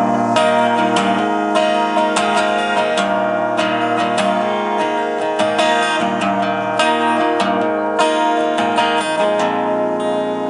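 Acoustic guitar strummed in a steady rhythm: the instrumental lead-in to a song, before the singing starts.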